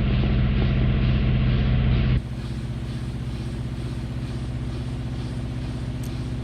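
LG Inverter Direct Drive washing machine in its spin cycle: the direct-drive motor and drum run with a steady hum. It is louder for about the first two seconds, then settles to a lower, even level.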